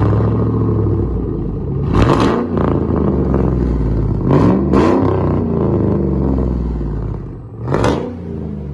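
Truck with a loud straight-pipe exhaust running, blipped four times (about two, four and a half, five and eight seconds in); each rev rises and falls in pitch over a steady rumble.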